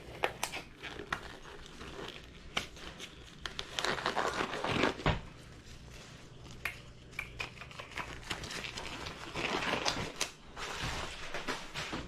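Disposable gloves being pulled on: thin plastic crinkling and rustling with scattered small clicks, louder about four seconds in and again near ten seconds.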